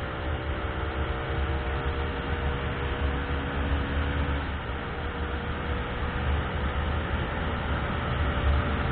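Car being driven in the rain: a steady low engine and road rumble under a continuous hiss of rain and wet tyres.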